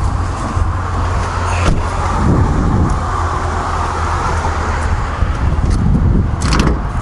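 Steady low vehicle rumble, with one sharp click about a second and a half in and a short rustling burst near the end.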